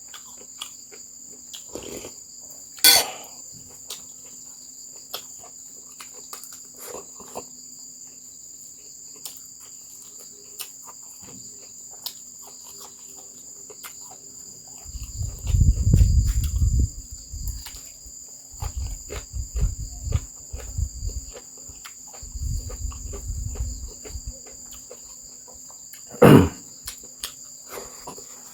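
Crickets chirping steadily, with scattered small clicks and knocks, two louder knocks about three seconds in and near the end, and several bursts of low rumble in the second half.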